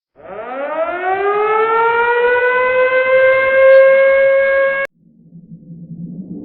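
A civil-defense-style siren winds up in pitch, holds a steady wail, and cuts off abruptly about five seconds in. A low droning rumble then swells in.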